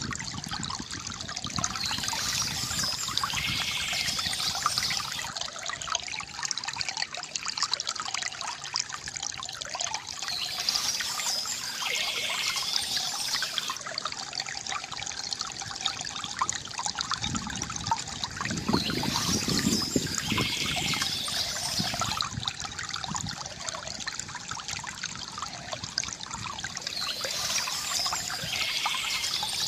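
Water trickling and gurgling steadily from a bamboo fountain, with a brighter splashing swell that comes back about every eight seconds.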